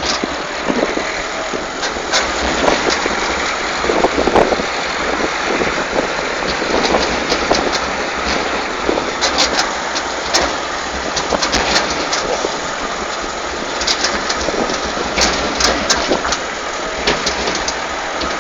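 Tractor running, a steady engine noise with frequent rattles and knocks, heard from on board.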